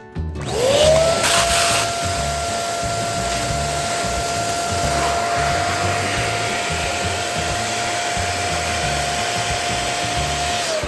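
Electric balloon pump running while inflating a balloon: its motor whine spins up about half a second in, holds steady over a rush of air, and winds down near the end.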